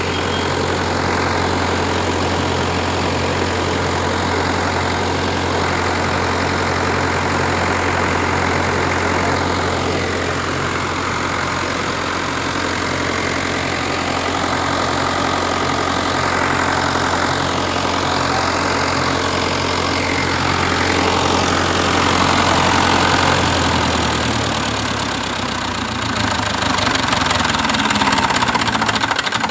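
Kirloskar 40 kVA diesel generator engine running steadily with a deep, even hum. About three-quarters of the way through, the deep hum drops and wavers as the engine speed shifts.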